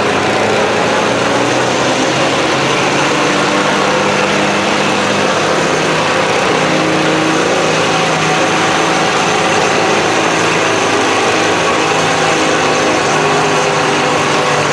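Farm tractor's diesel engine running loud and steady, its pitch shifting only slightly, typical of a stock tractor at a tractor pull.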